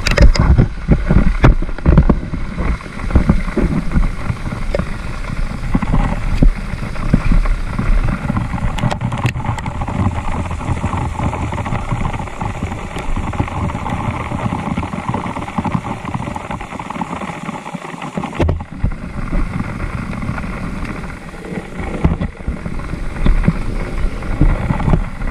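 Trail motorcycle engine running steadily under way, with wind noise on the microphone.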